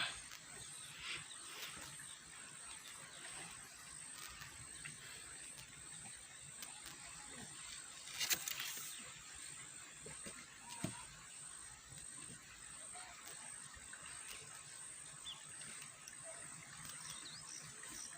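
Faint outdoor ambience: a steady hiss, with a few brief clicks and knocks, the loudest about eight seconds in and another about eleven seconds in.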